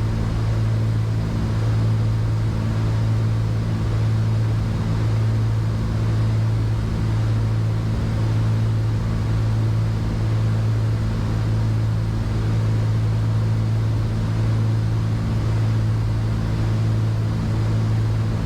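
The Cessna 310Q's twin piston engines and propellers droning steadily in the cockpit, with a slow, even waver in loudness about once a second.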